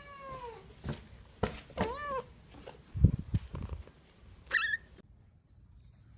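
A domestic cat meowing: a long drawn-out meow at the start, another about two seconds in, and a short high one near the end. There is a loud low thump about three seconds in.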